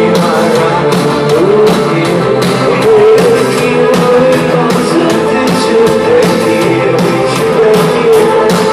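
Rock band playing a song: drums keep a steady beat under guitars, with a sung melody on top.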